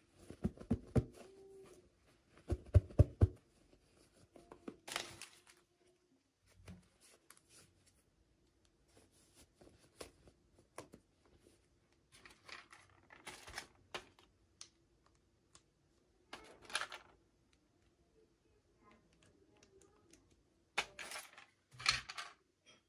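Hands opening and handling toy packaging: scattered bursts of crinkling and tearing with clicks and taps. The loudest part is two clusters of rapid clicks about one and three seconds in.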